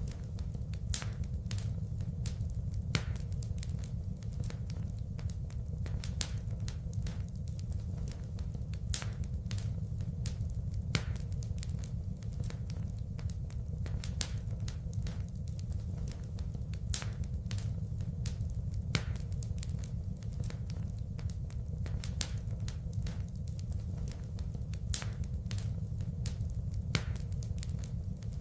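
Wood fire crackling, with frequent sharp pops and snaps at irregular intervals over a steady low rumble.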